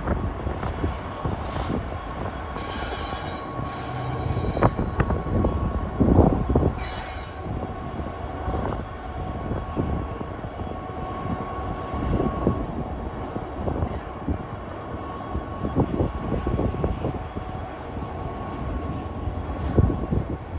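A train running by: a steady mechanical drone with scattered knocks and rattles.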